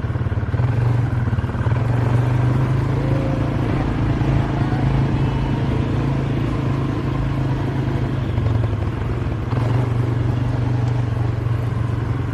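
A small motor vehicle's engine running at a steady speed, a constant low drone with only slight changes in level.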